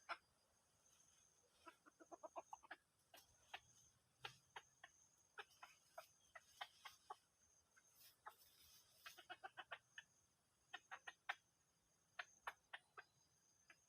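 Red junglefowl clucking faintly: quick runs of short clucks, several a second, broken by pauses.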